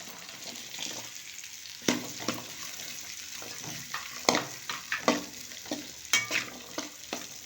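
Chopped onions sizzling in hot oil with garlic, ginger and green chillies while they are stirred in the pan. The stirring utensil clatters and scrapes against the pan every second or so over the steady hiss.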